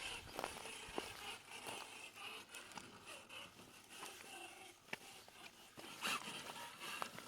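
Rlaarlo JK07PRO 1/7 RC trail truck's electric drivetrain whining in short, on-and-off bursts as it crawls, with scattered scraping clicks.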